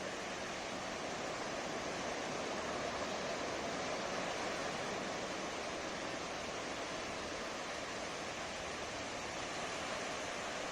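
Ocean waves breaking and washing up a beach in a continuous rushing wash, swelling slightly a few seconds in.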